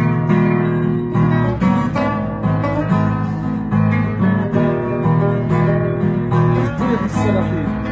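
Instrumental passage of a song: acoustic guitar strummed in a steady rhythm of held chords, with no singing.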